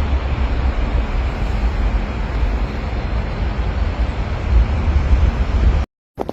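Steady outdoor rumble with an even hiss, cutting off abruptly about six seconds in.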